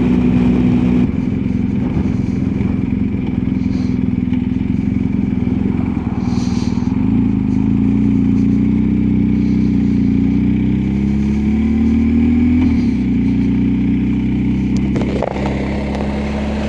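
BMW R1250GSA's boxer-twin engine running steadily at road speed, its note climbing slowly through the middle and dropping back about two-thirds of the way through.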